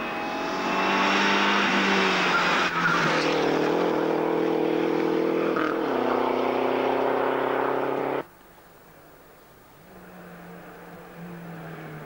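Rally car engine running at high revs as the car drives past, its pitch stepping down twice, then stopping abruptly. After a short lull, another rally car's engine is heard more faintly as it approaches.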